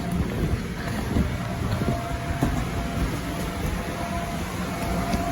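Electric air blower of an inflatable bounce house running: a steady, dense low rumble with a faint whine that comes and goes.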